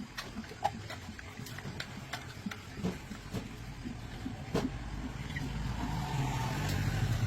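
An engine running, growing steadily louder over the second half, with scattered light clicks and knocks throughout.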